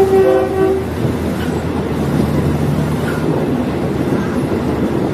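A diesel multiple-unit train running on the rails. It sounds a short horn blast of under a second at the start, then a steady engine and wheel rumble.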